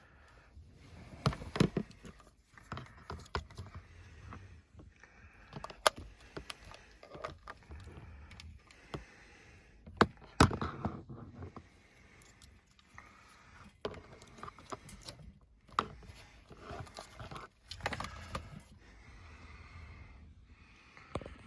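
Small objects being handled and set down: irregular clinks, knocks and rustling, with a few sharp clicks standing out.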